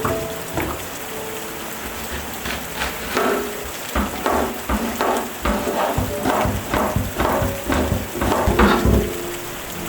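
Steady rain with soft background music, and a run of quick knocks, about two or three a second, from a few seconds in until near the end.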